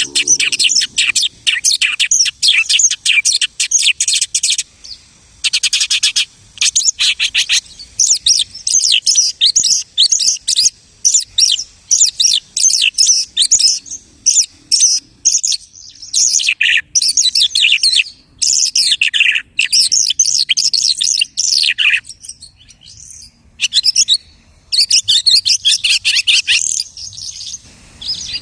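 Lark singing its mimicking song: fast, varied runs of high chirps, whistles and trills that stop briefly several times and start again.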